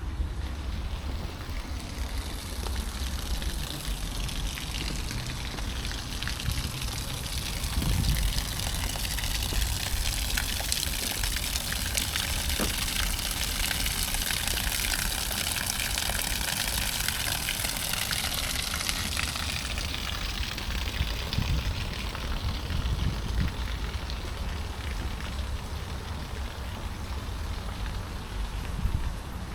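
Splashing, spraying water, growing louder and then fading away over about twenty seconds, over a steady low rumble.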